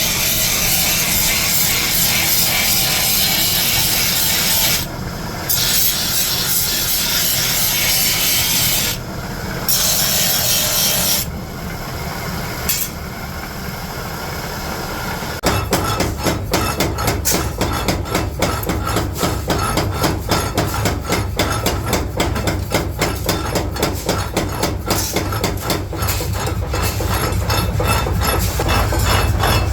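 Steel being worked with hand tools: a steady rasping, rubbing hiss that breaks off briefly three times. About halfway through it gives way to a fast, regular run of sharp strikes, about three a second, over a low hum.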